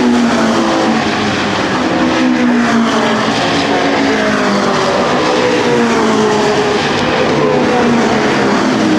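Racing car engines at high revs, several at once, their pitch repeatedly rising and falling through gear changes.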